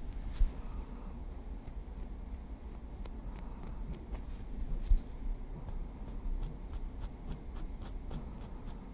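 Small wooden stick tapping lightly: irregular quick, crisp clicks, busier in the second half, with two louder taps about half a second in and about five seconds in.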